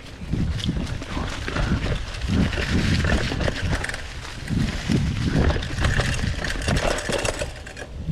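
Mountain bike riding a dirt trail: wind buffeting the microphone in uneven gusts, with tyre noise and the bike clattering and rattling over bumps.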